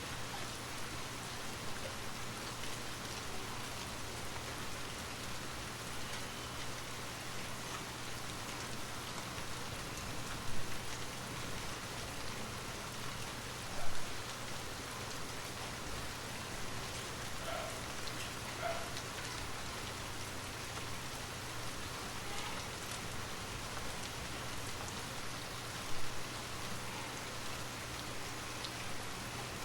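Steady rain falling on a surface, with three louder, sharp taps about a third of the way in, near the middle and near the end.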